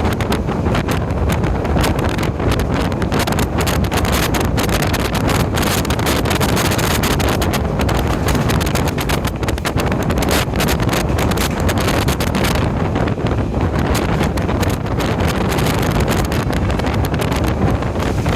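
Diesel multiple-unit express train running at speed, a loud steady rumble with dense rattling, and wind buffeting the microphone.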